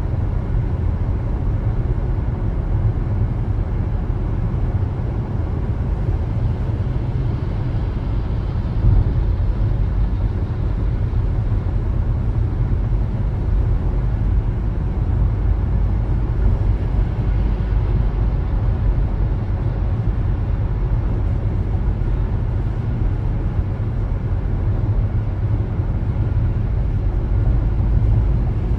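Steady low rumble of a car being driven: road and engine noise heard from inside the moving car.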